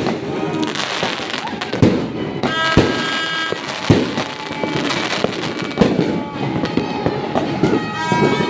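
Fireworks going off: a run of sharp bangs at irregular intervals over a continuous hiss and crackle.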